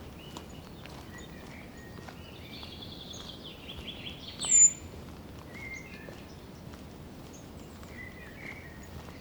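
Forest birds calling: scattered chirps and a rapid trill, over a low, even background hiss. One loud, short, high, slightly falling whistle about four and a half seconds in.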